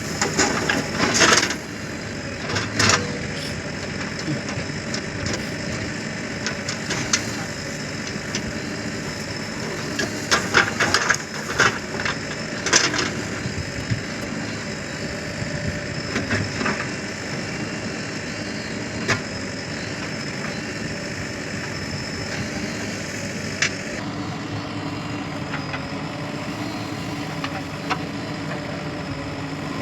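Diesel engines of a backhoe loader and tractors running steadily, with a series of sharp clanks and knocks, most of them in the first thirteen seconds.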